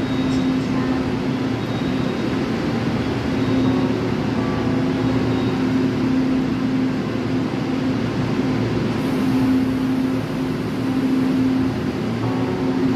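A railway train's steady running hum, with a constant low tone over an even mechanical noise and no sharp knocks or horn.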